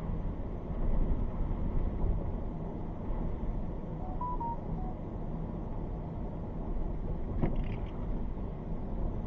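Steady low rumble of a vehicle idling, heard from inside the cabin. About four seconds in come four short, quiet electronic beeps at slightly different pitches. A sharp click follows at about seven and a half seconds.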